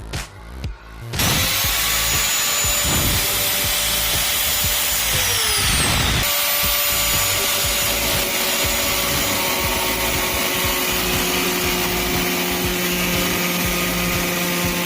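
Black & Decker G720 4-inch 820 W angle grinder switched on about a second in and running with a steady whine. About five seconds in, its pitch starts falling as it is switched off and winds down. About a second later it is switched on again and runs steadily.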